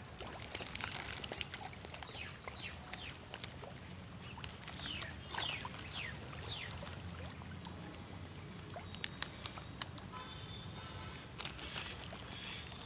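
Birds calling around a pond, a run of quick falling chirps, with scattered sharp clicks and a pulsing call near the end.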